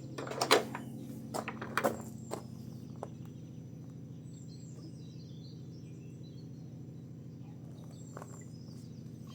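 A few sharp knocks or taps in the first two seconds, the loudest about half a second in, then a steady low hum with faint birds chirping.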